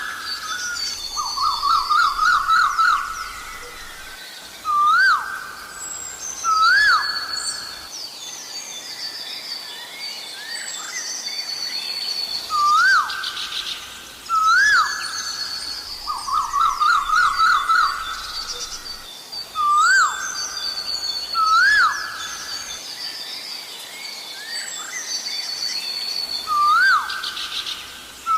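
Asian koel calling: single rising 'ko-el' notes and runs of quick, rising repeated notes, over a higher chorus of smaller birds chirping. The same sequence of calls comes round again about every 14 seconds.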